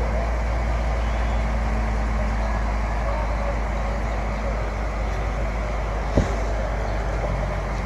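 Heavy diesel engine running steadily with a deep, even rumble, and a single sharp knock about six seconds in.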